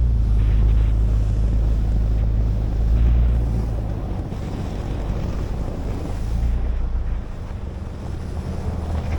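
A 4x4 truck driving on packed snow: the engine runs with a low drone that swells and eases a few times, over a steady rush of tyre and wind noise.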